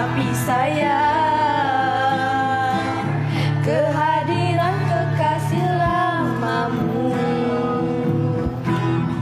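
A voice singing a slow melody with long drawn-out, held notes over instrumental accompaniment with steady low bass notes.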